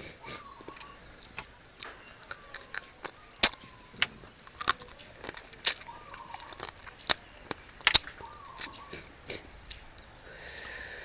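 Close-up eating of spicy seafood papaya salad with fresh shrimp and crab: chewing and crunching in sharp, irregular clicks. A short hiss comes near the end.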